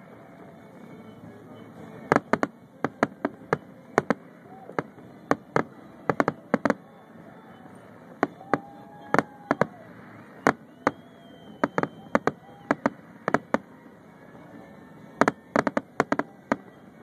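Fireworks shells bursting in a quick, irregular string of sharp bangs, several close together, with people's voices in the background.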